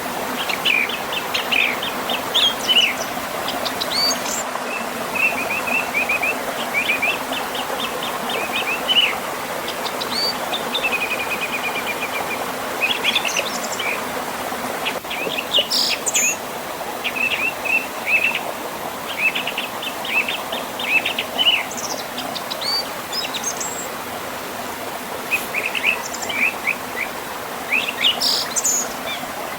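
Birds chirping and trilling again and again over the steady rush of a flowing river.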